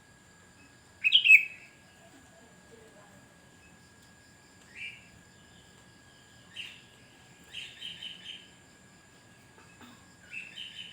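Sooty-headed bulbul (kutilang) calling: a loud, short chirpy phrase about a second in, then sparser single calls, a quick run of about four notes around eight seconds in, and another short phrase near the end.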